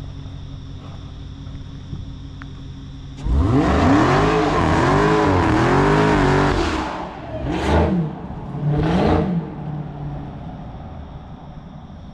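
Supercharged V8 of a Dodge Hellcat Redeye idling, then suddenly revved hard about three seconds in, the revs rising and falling several times, followed by two short, sharp blips of the throttle before it settles back to a rumble.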